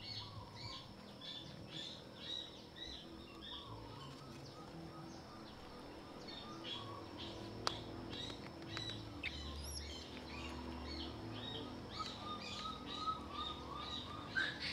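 Small birds chirping, faint high chirps repeating several times a second, with a single sharp click a little past halfway.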